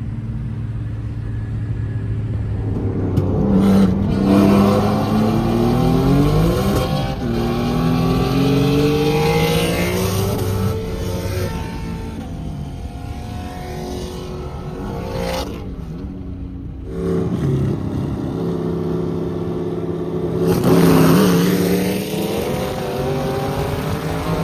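Car engine accelerating hard through the gears in a race. Its pitch climbs and drops back at each upshift, it eases off around the middle, and it pulls hard again near the end.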